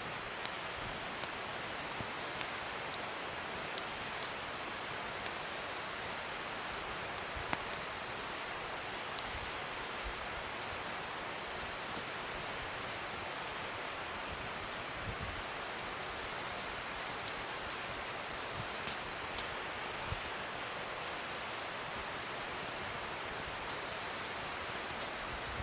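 Wood fire burning: a steady hiss with scattered sharp crackles and pops, the loudest pop about seven and a half seconds in.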